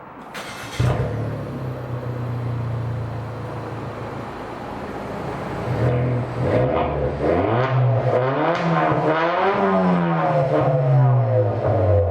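Suzuki Swift Sport ZC33S's 1.4-litre turbocharged four-cylinder engine heard through an HKS Hi-Power muffler with a custom straight center pipe. It starts up just under a second in and idles steadily. In the second half it is revved several times, the exhaust note rising and falling in pitch.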